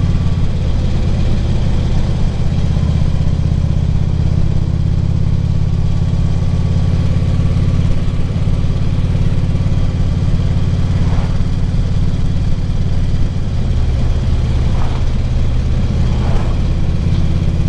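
Harley-Davidson Ultra Classic Limited's V-twin engine running steadily while cruising, heard from a helmet microphone along with road and wind noise. A few faint brief whines come near the end.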